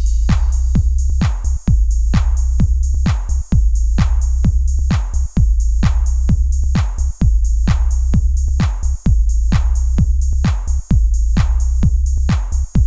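Electronica track: a drum-machine beat of regular hits over a deep, sustained bass, repeating a short loop of about two seconds.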